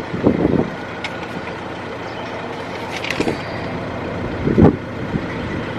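Car and traffic sound in a drive-through lane: a steady vehicle rumble, with a few low thuds from wind gusts hitting the microphone near the start, about three seconds in and about four and a half seconds in.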